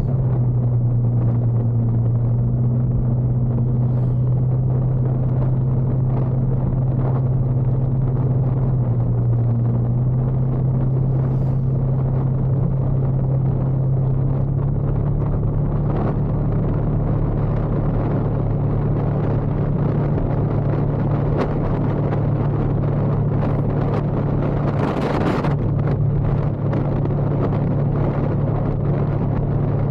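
Motorcycle engine running steadily under way, with road noise. Its pitch shifts slightly about halfway through, and a brief hiss rises near the end.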